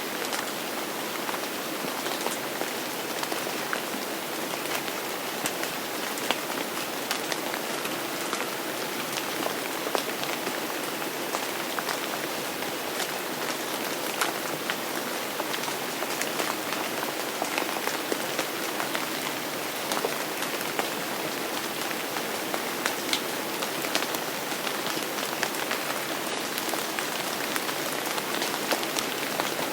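Steady rain falling on a surface, a constant hiss with many close individual drops ticking and pattering through it.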